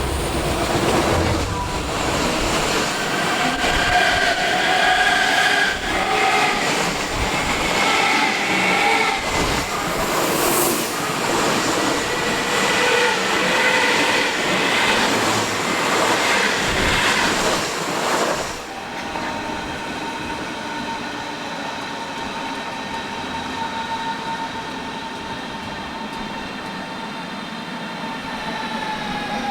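A train running through the station with its wheels squealing on the rails, for about eighteen seconds. The rail noise then drops away suddenly, leaving a steady whine of several tones that starts to fall in pitch at the very end.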